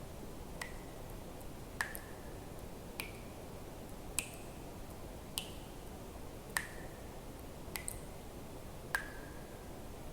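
Water drops falling into water one at a time, evenly about every 1.2 seconds, eight in all, each a sharp plip with a short ringing tone that shifts slightly in pitch from drop to drop, over a steady low hiss.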